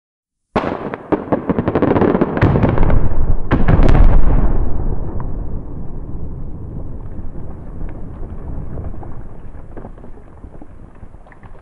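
Rock-blasting explosion: a rapid series of sharp cracks from the detonating charges, then two heavy booms about a second apart, followed by a long low rumble that slowly fades away.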